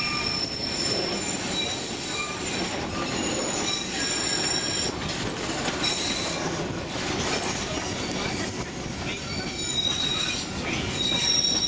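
Narrow-gauge St. Kitts Scenic Railway train running along the track as heard from an open car: a steady rumble of wheels and cars with many brief, high-pitched wheel squeals.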